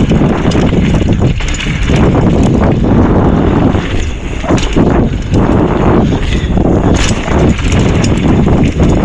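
Wind buffeting the microphone while a mountain bike rides over a dirt trail, with a few sharp knocks from the bike over bumps.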